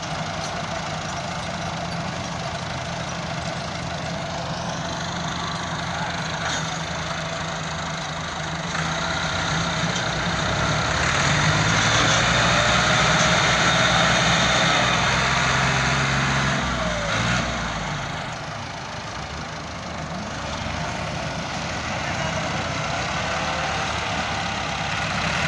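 Tractor engines running steadily, growing louder about ten seconds in and easing off again a few seconds later.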